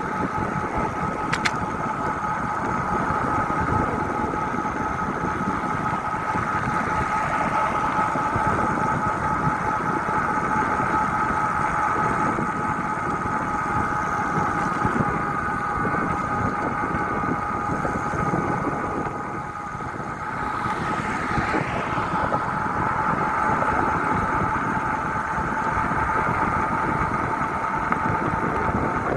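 Steady riding noise: wind on the microphone under a constant hum with two steady tones. The sound dips briefly about two-thirds of the way through, with a faint rising-and-falling whine.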